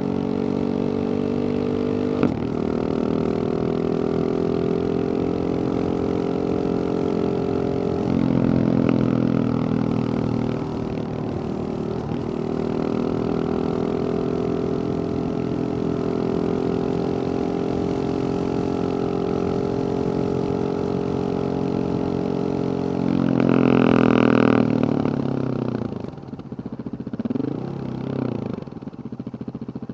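Husqvarna 701 single-cylinder four-stroke engine running through a Wings aftermarket exhaust. The engine note holds steady for long stretches with a few step changes in pitch, then comes one short, louder rev about three-quarters of the way through. Near the end it drops off and wavers.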